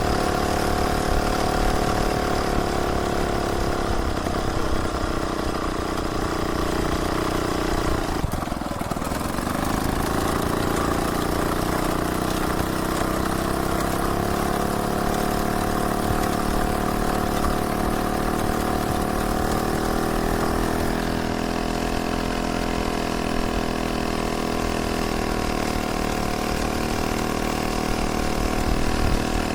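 A VéloSoleX 1700 moped's small two-stroke engine running steadily; its pitch dips sharply and picks back up about a third of the way in.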